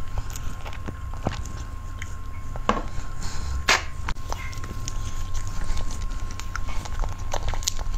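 Close-miked chewing and mouth sounds of someone eating cream cake: scattered wet clicks, with two sharper knocks a second apart about three seconds in, over a steady low hum.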